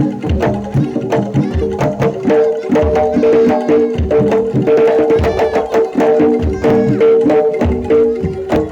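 Live jaranan dor music: frequent drum strokes, deep thuds among them, over steady ringing gamelan-style tones, with a higher wavering melody entering about three seconds in.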